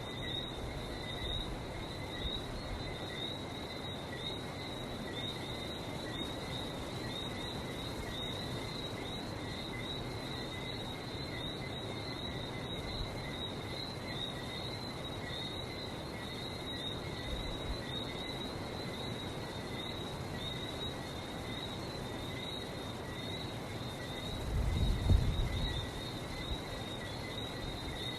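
A chorus of Lesser Antillean whistling frogs: many short, high whistled chirps overlapping without a break, over a low, steady rush. A brief low rumble about 25 seconds in.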